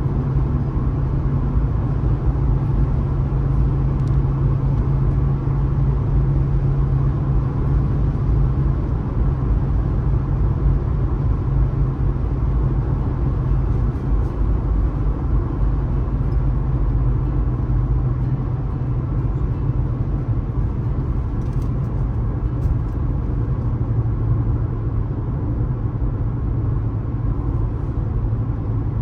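Steady low rumble of a car driving at speed on a highway: tyre and road noise with engine drone, even throughout.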